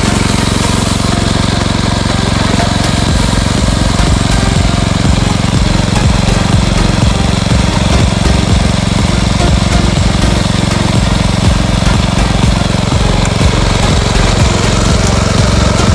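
Small engine of a mini tractor running steadily at working speed while it weeds between crop rows, with a fast rattling clatter over the engine note.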